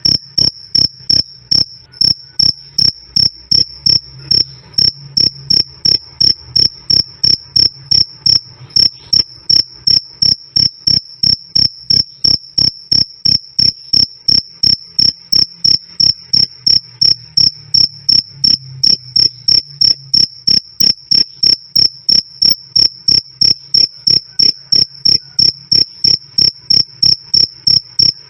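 A cricket chirping loudly and steadily: short, high-pitched chirps evenly spaced at about three a second.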